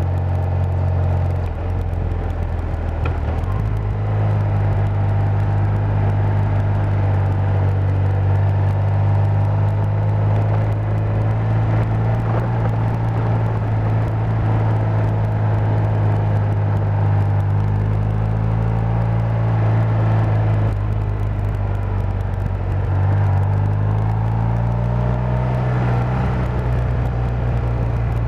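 BMW R80 air-cooled flat-twin boxer engine running while the motorcycle is ridden. Its note rises about four seconds in, drops around twenty seconds in, then climbs again as the speed changes.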